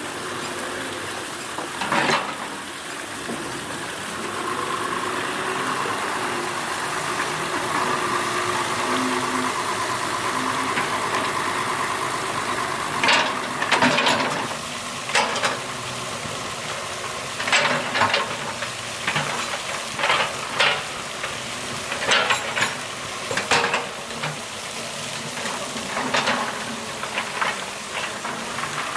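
Excavator's diesel engine running steadily. About halfway through, a run of sharp, irregular knocks and clanks begins, typical of the bucket and arm working.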